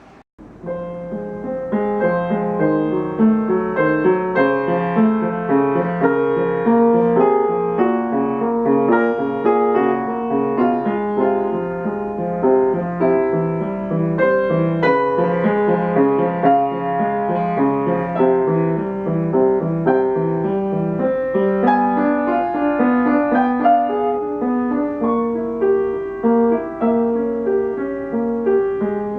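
Piano music: a steady stream of notes, low and middle together, that starts about half a second in, just after a moment of silence.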